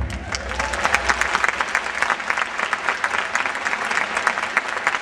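Stadium audience applauding, dense steady clapping after the marching band's song ends.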